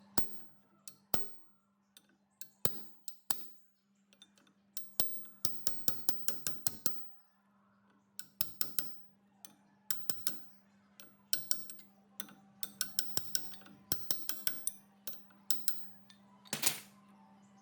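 Sharp metallic clicks and taps in quick, irregular runs, as hand tools and small metal parts are handled. A faint steady hum lies underneath.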